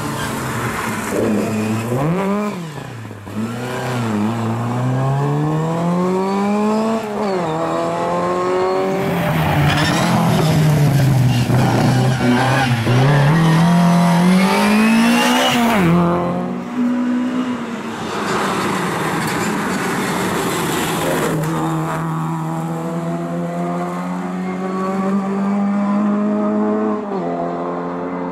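Lada rally car's engine revving hard under full acceleration, its pitch climbing steeply and dropping back with each gearchange, over and over as the car approaches and passes. Near the end it holds a steadier note for several seconds before dropping again.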